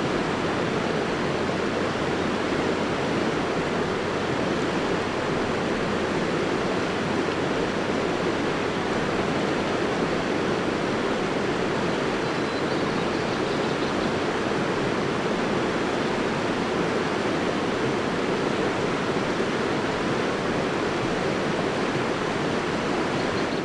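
Steady rushing water, an even, unbroken noise with no distinct events.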